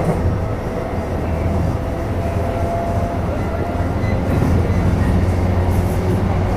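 Running noise heard inside a JR East E233-3000 series electric train's motor car: a steady low rumble of wheels on rails with faint steady tones from the IGBT-VVVF traction equipment, getting a little louder about four seconds in.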